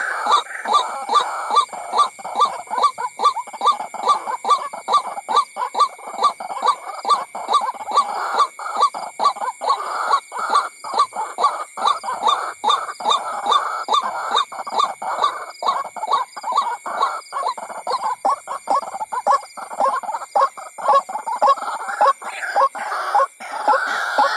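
White-breasted waterhen calls: a rapid, unbroken run of repeated croaking notes, several a second. This is the waterhen's call used as a lure sound to bring the birds in.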